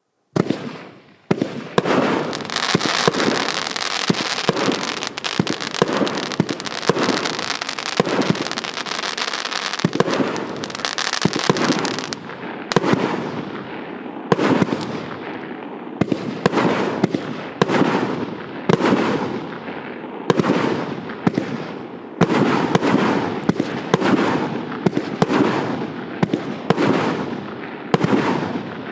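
A 1.2-inch, 49-shot consumer fireworks cake firing. For the first ten seconds or so, rapid launches run together under continuous crackling. After that come single shots about once a second, each launch followed by its burst.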